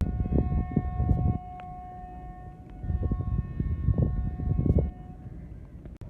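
Train horn sounding two long, steady blasts, the second starting just under three seconds in, over wind buffeting the microphone.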